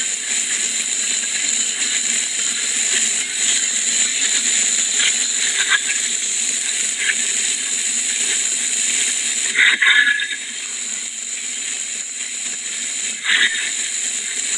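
Steady hiss of storm wind and rain as a hurricane approaches, with a few brief louder noises about two-thirds of the way through.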